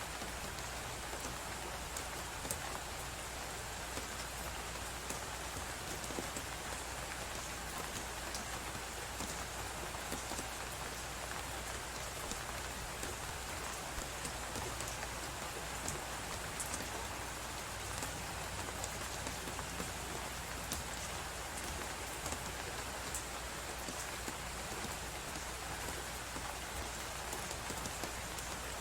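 Crackling fireplace: frequent small pops and snaps over a steady, even hiss of blizzard wind.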